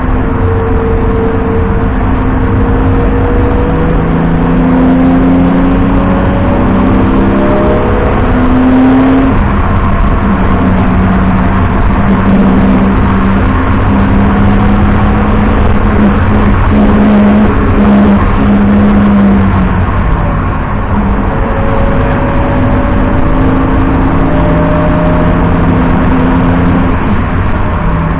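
BMW 330i E90's straight-six engine under hard driving: the revs climb over the first several seconds, hold steady for about ten seconds, dip briefly, then rise again. Steady road noise runs underneath.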